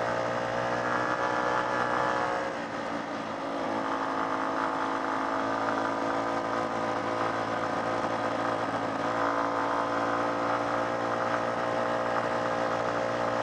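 Old small-capacity motorcycle engine running at steady revs while being ridden, with a brief dip in revs about three seconds in before it settles back.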